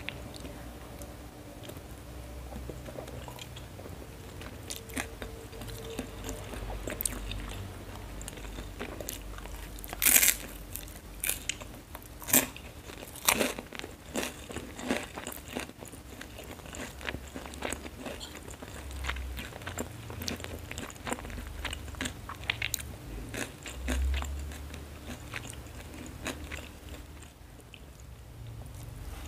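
Close-up eating sounds of fried noodles: chewing and small mouth clicks throughout, with several loud crunches, the sharpest about ten to fourteen seconds in, from biting fried fish crackers (kerupuk ikan).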